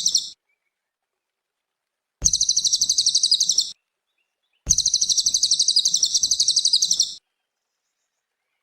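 Cililin songbird singing loud, very rapid high-pitched trills in separate phrases: one ends just after the start, then two more follow, the second longer, with total silence between them.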